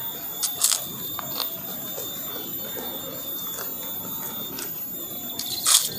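Close-up crunching and chewing of a crisp fried snack, with sharp crunches about half a second in, around one and a half seconds, and a loudest one near the end, over a steady high whine.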